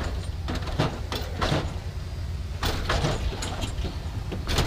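A lowrider car hopping on its hydraulics, heard as a steady low engine hum under a series of short, sharp banging and hissing bursts.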